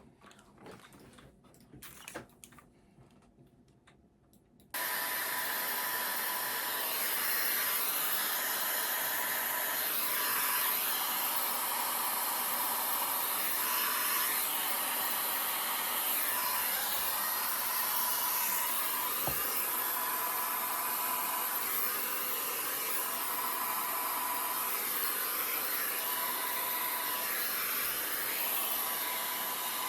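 A hair dryer fitted with a diffuser switches on abruptly about five seconds in and runs steadily. It blows with a thin steady whine, and its sound wavers a little as it is moved about the hair.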